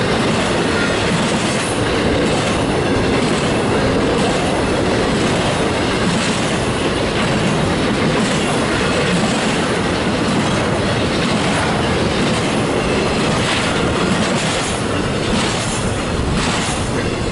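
CSX intermodal freight train's flatcars rolling steadily past close by: a continuous rumble of steel wheels on rail. Clicks from the wheels over the rails become more distinct near the end.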